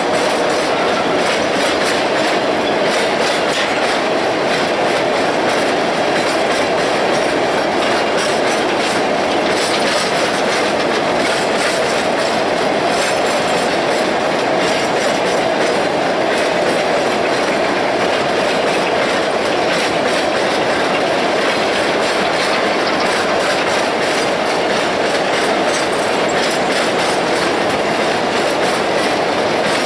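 Freight cars of an ore train rolling steadily past, the wheels clicking over rail joints with a constant rumble and rattle throughout.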